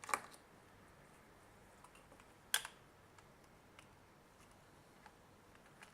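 Small plastic clicks and taps from handling the parts of an opened multimeter: two sharper clicks, at the start and about two and a half seconds in, with a few faint ticks between.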